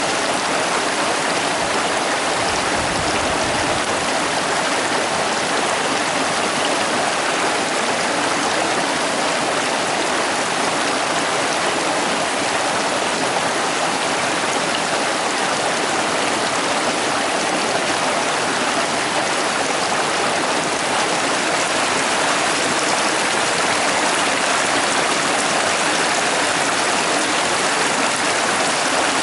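Young Prut river, a mountain stream near its source, rushing steadily with an even, unbroken water noise.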